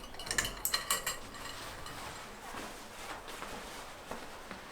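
Kitchenware clinking: a quick run of light, ringing clinks in the first second or so, then quieter handling sounds.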